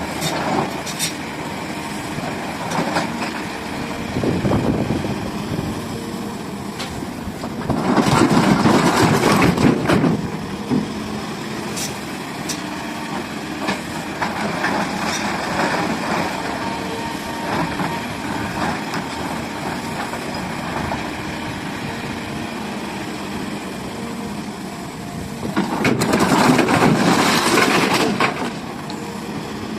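SDLG excavator working, its diesel engine running steadily. Twice, about eight seconds in and again near the end, a louder noisy rush lasts about two seconds.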